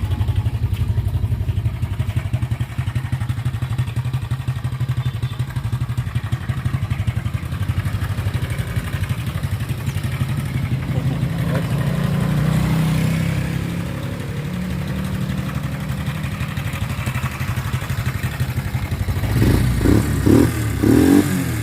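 Viar Bit motorcycle engine idling steadily, an engine the seller calls smooth. It swells briefly about twelve seconds in, and the throttle is blipped about three times near the end.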